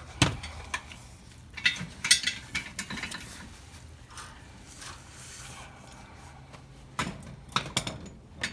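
Hand tools on car-engine bolts: scattered metallic clicks and clinks of a socket wrench and breaker bar, busiest over the first three seconds and again near the end, with a quieter stretch between.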